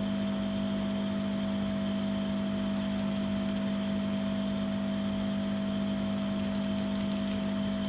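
A steady machine hum with a constant low tone, like a fan or air-conditioning unit running, and a few faint light clicks about three seconds in and again near the end as small screws are handled.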